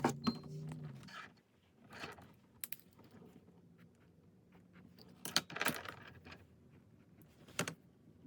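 Faint, scattered small clicks and brief rustles of small objects being handled. The clicks come in a few short clusters, with two sharp ticks a few seconds in.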